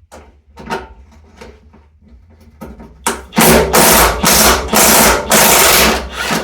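Light clicks and knocks of tools being handled, then about three seconds in a power tool starts running in a string of short bursts with brief gaps, undoing long bolts under the car's front end.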